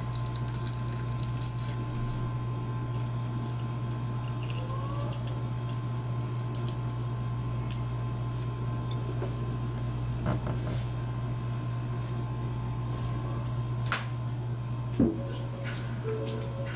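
Wet, squishy chewing of a balut being eaten close to the microphone, with light clicks from handling, over a steady low hum. A single louder knock about fifteen seconds in.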